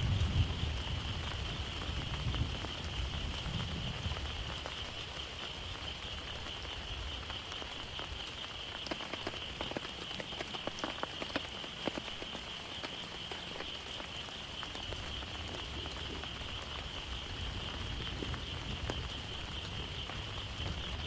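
Heavy rain falling steadily, with individual drops ticking sharply. A low rumble of thunder dies away over the first few seconds, and a steady high-pitched drone runs underneath throughout.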